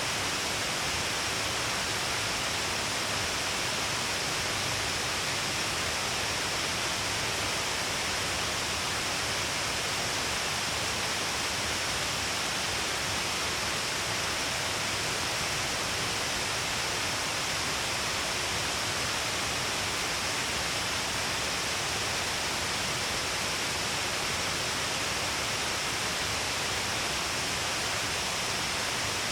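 Shiraito Falls, a broad curtain of many falls along a cliff, pouring with a heavy flow: a steady, even rush of water that does not change.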